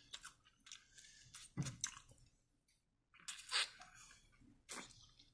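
Chewing and biting into sauced chicken wings: faint, scattered mouth sounds in a handful of short bursts with quiet gaps between them.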